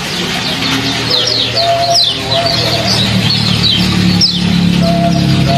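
Songbird chirping rapidly, a busy run of short high notes that each slide downward, over a steady trickle of water; low steady tones, like background music, grow stronger near the end.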